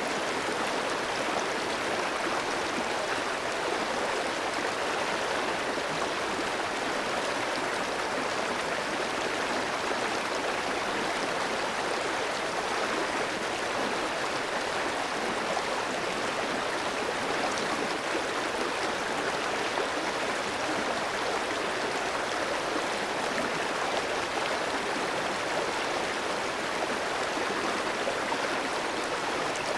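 Clear stream flowing steadily over rocks, an even rushing and babbling of water with no breaks.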